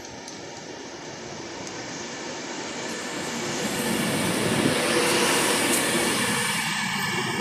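Passenger train approaching and running through the station at speed: a rushing rumble of wheels on rail that builds over the first few seconds and stays loud as the coaches pass.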